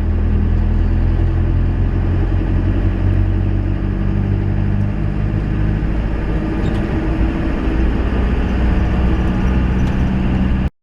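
Van engine running steadily with road noise, heard from inside the cab while driving.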